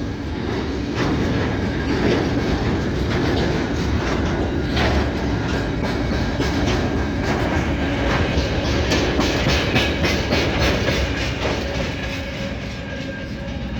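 Train running along the track, its wheels clicking over the rail joints in a steady stream of knocks, with a faint steady whine; it eases slightly near the end.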